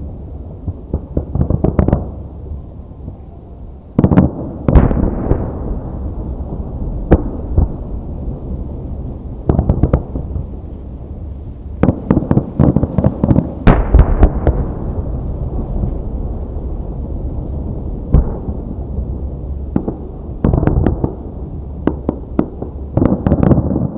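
Aerial fireworks bursting: a string of booms and clusters of crackling shells, about a dozen strong reports, over a continuous low rumble of echoing detonations.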